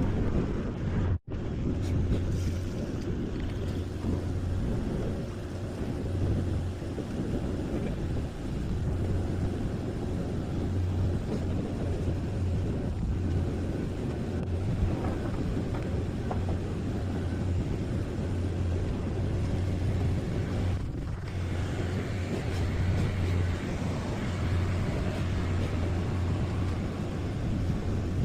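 Engine idling steadily with a low rumble, cut by a brief dropout about a second in.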